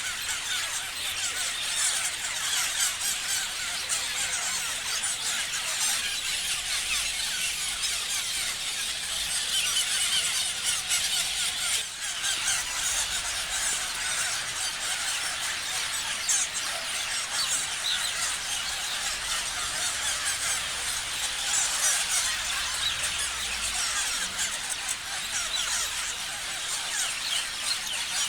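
A group of parrots chattering and screeching continuously, many shrill, quick overlapping calls at once.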